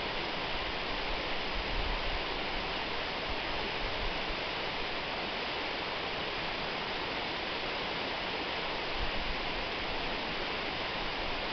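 Waterfall: a steady rush of falling water, with small low swells in the rumble about two seconds in and again near nine seconds.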